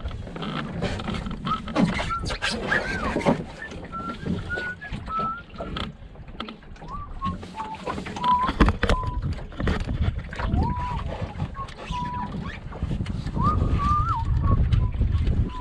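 Wind buffeting the microphone and water noise from a sailing dinghy under way, with repeated knocks from the boat and short squeaky tones that bend in pitch.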